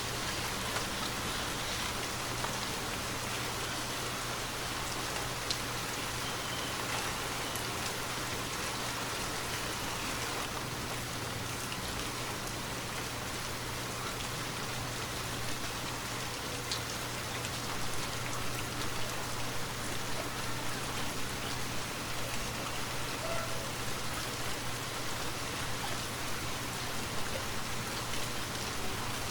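Steady rainfall: a dense, even hiss of rain with scattered individual drops, growing slightly more uneven from about halfway.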